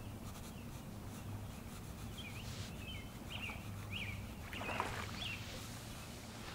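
Quiet woodland ambience: a few short bird chirps over a low steady hum, with a brief rustle a little past the middle.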